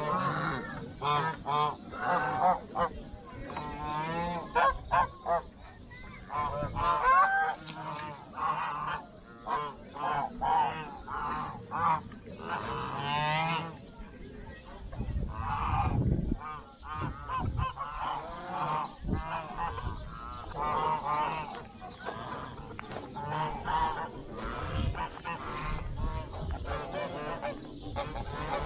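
A group of birds calling loudly and over and over, many short overlapping calls with only brief gaps.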